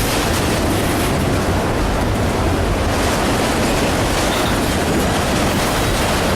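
Train cars rolling past at close range: a steady, loud rumble and hiss of wheels on rail.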